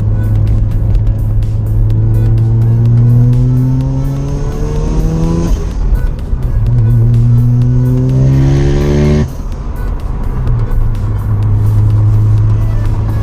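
Mazda 26B four-rotor rotary engine in an RX-7 FD accelerating. It climbs in pitch for a few seconds, dips briefly, then climbs again. About nine seconds in it drops off suddenly as the throttle is lifted, settling into a steady lower drone.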